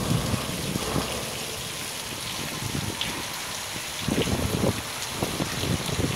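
Steady rain, with small drop ticks over a hiss, and irregular low rumbles that are loudest about four to five seconds in.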